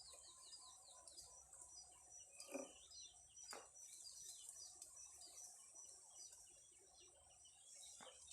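Faint outdoor ambience: small birds chirping in short repeated calls over a thin, steady, high insect drone, with a few soft knocks.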